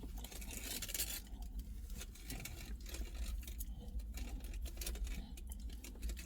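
Close-up eating sounds from someone chewing a pork doner kebab, with many small scattered clicks and crackles over a low hum.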